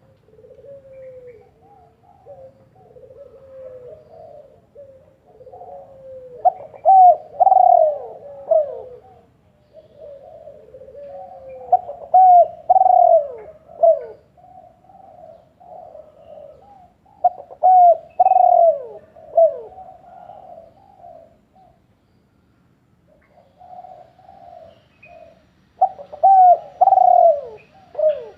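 A bird calling continuously in low, rising-and-falling notes. Louder phrases come about every five to six seconds, with a short break about three quarters of the way through.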